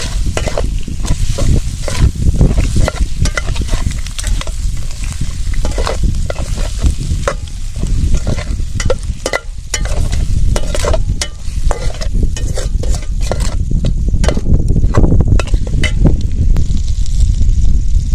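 Chopped tomatoes and coriander frying in oil in a pan, sizzling while a spoon or spatula stirs and scrapes against the pan in many quick, irregular strokes. A strong low rumble runs underneath.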